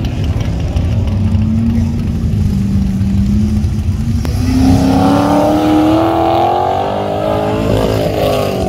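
Chevrolet Corvette's V8 running hard through an autocross course. The engine note dips a little as the car slows for turns, climbs steadily for about three seconds as it accelerates out of a corner, then falls back near the end.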